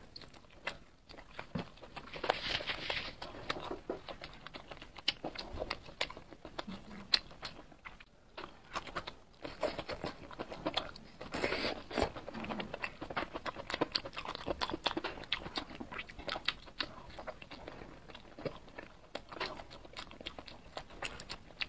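Close-miked chewing and biting of grilled, spice-coated skewered food (meat, green peppers and sausage), a dense run of small clicks and smacks from the mouth.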